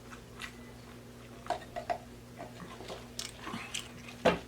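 Close-miked chewing and lip-smacking on a mouthful of burger, fish and chicken sandwich: scattered short wet clicks, with a louder thump near the end, over a steady low hum.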